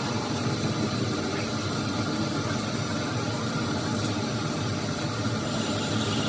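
A machine running steadily, a dense mechanical noise with faint steady whining tones and no change in speed.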